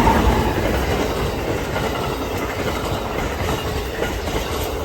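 A train passing, its wheels running on the rails with a steady rumble that is loudest at the start and eases slightly after.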